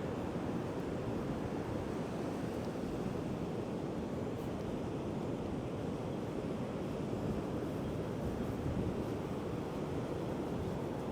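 Heavy ocean surf breaking continuously under high wind, with wind buffeting the microphone in a steady low rumble.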